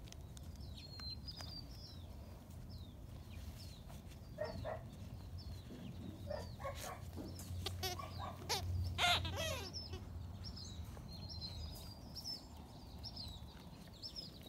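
Small birds chirping repeatedly, with a cluster of louder, high squeaks a little past the middle.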